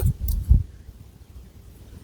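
Hands with long nails handling long hair close to the microphone: a few deep soft thumps in the first half second, then faint rustling.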